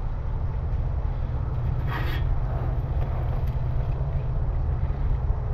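A steel striker scraped against a chert edge in a flint-and-steel strike, a short scratchy rasp about two seconds in and a fainter one about a second and a half later, over a steady low rumble.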